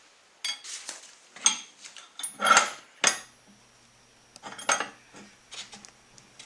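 Metal parts of a Fortis No 11 bench vice clinking and knocking against each other as they are handled and fitted back together, in two bursts of irregular clatter, some knocks ringing briefly.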